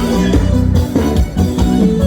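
Live forró band playing an instrumental passage, with guitar and drum kit over a steady beat.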